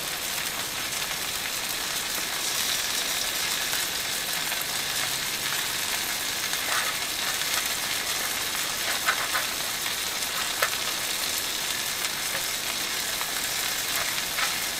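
Floured mushroom pieces frying in butter in a skillet: a steady sizzle, with a few faint clicks partway through.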